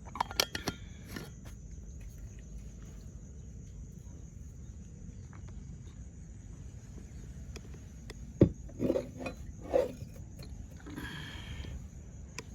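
Light clinks and knocks of a coffee cup and flask being handled: a few quick clicks just after the start, then a sharp knock and some clattering about eight to ten seconds in.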